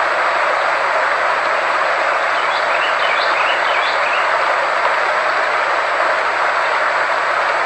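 Steady, unchanging hiss-like noise with faint steady high tones under it, from a sound-frequency therapy track. A few faint short chirps come through about two and a half to four seconds in.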